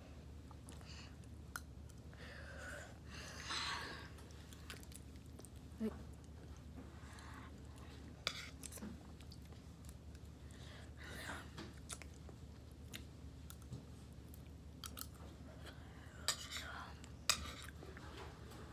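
Chewing and mouth sounds of a person eating mashed potatoes from a fork, close to the microphone, with scattered sharp clicks.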